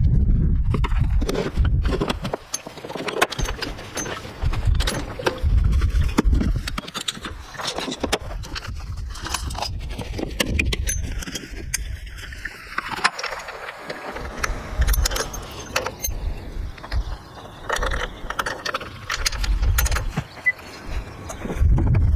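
Metal parts and tools clinking and knocking at an irregular pace, with bursts of low handling rumble in between, typical of hands-on work on the motorcycle's wheel.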